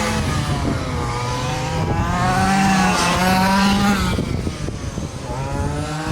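Several quarter-scale RC super trucks racing, their small engines revving up and falling back in pitch again and again as they go round the track, several engines overlapping.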